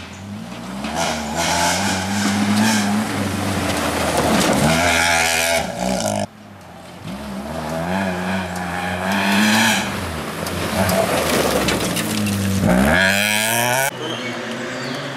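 Volkswagen Polo rally cars at speed on a rally stage, their engines revving hard and rising and falling in pitch through the gear changes. Several separate passes follow one another, and one car sweeps past about 13 seconds in with a sharp drop in pitch.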